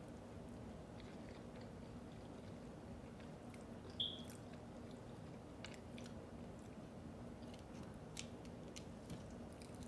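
A person chewing food close to the microphone, with soft crunching and scattered small clicks over a steady low hum. A short high squeak about four seconds in is the loudest sound.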